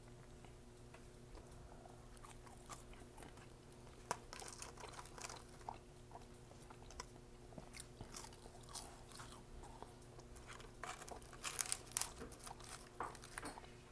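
Close-up chewing of McDonald's French fries: soft crunches and wet mouth clicks that grow busier from about four seconds in and are loudest near the end, over a steady low hum.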